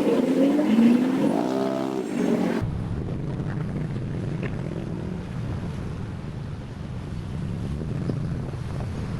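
Motorbike ride in traffic: an engine revving up and down for about two and a half seconds, then a cut to steady wind noise on the microphone over a low road rumble.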